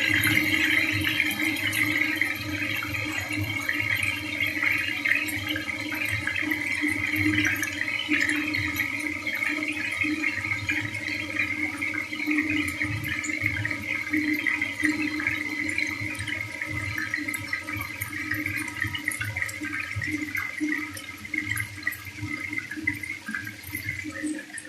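Chicken pieces frying in hot oil: a steady sizzle with scattered crackles and pops.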